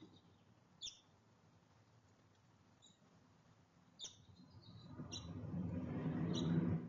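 Small songbirds at a feeder giving short, high chirps, about five times. In the second half a low rushing noise swells up and cuts off suddenly near the end.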